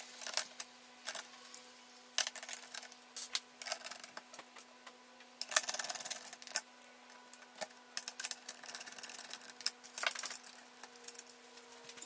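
Computer parts being handled and fitted back into the chassis of an all-in-one PC: a run of sharp clicks and knocks, with a longer rattle about five and a half seconds in and another near ten seconds.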